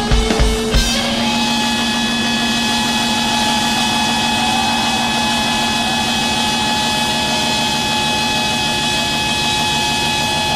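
Live rock band: drum hits for about the first second, then a loud, steady, distorted drone with several held tones and no beat.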